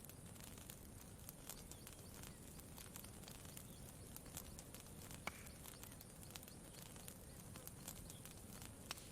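Campfire crackling faintly: scattered sharp pops and snaps at irregular moments over a low, steady rumble, with one louder pop about five seconds in and another near the end.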